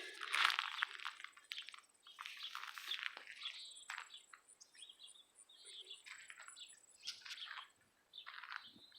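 Birds chirping: many short, irregular calls, some in quick runs.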